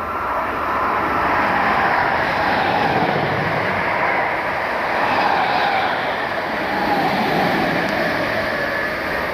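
Electric multiple-unit passenger train running through the station at speed, a loud steady rolling noise of wheels on rail as the carriages pass.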